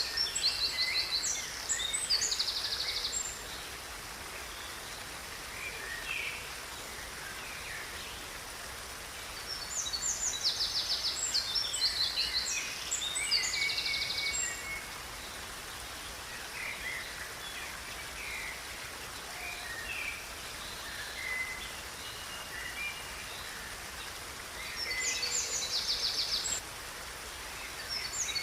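A songbird singing in bursts of rapid, high trills and chirps, three times, at the start, about ten seconds in and near the end, with quieter scattered chirps in between. A steady hiss of ambient outdoor noise lies underneath.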